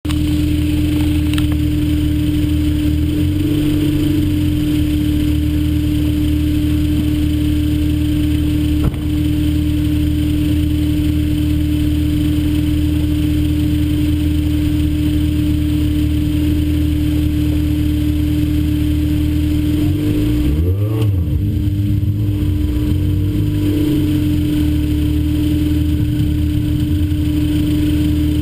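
Car engine idling steadily out of sight, with its pitch shifting briefly about three seconds in and rising and falling a few times around twenty seconds in, like light revs.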